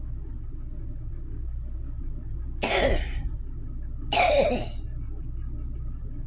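A person coughing twice, about a second and a half apart, over a steady low rumble.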